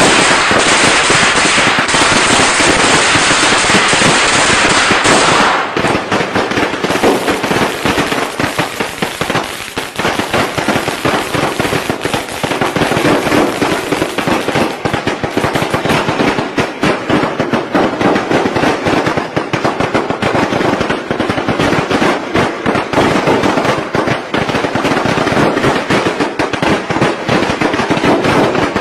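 Strings of Tết firecrackers going off in a dense, continuous crackle of rapid bangs. About five and a half seconds in, the crackle changes abruptly, then carries on just as thick.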